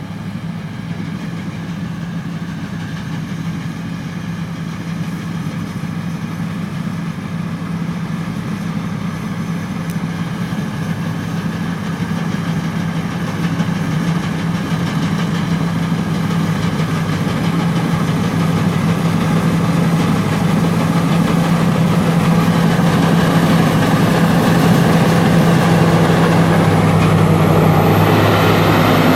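Rice combine harvester's diesel engine running steadily, with a mechanical clatter over the hum, growing gradually louder.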